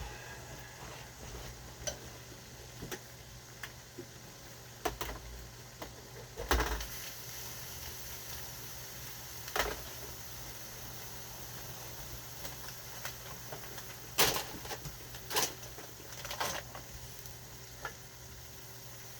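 Kitchen cooking sounds: a faint steady sizzle over a low hum, with scattered sharp knocks and clinks of utensils on pots and pans. The loudest knocks come about six and a half seconds in and around fourteen to fifteen seconds in.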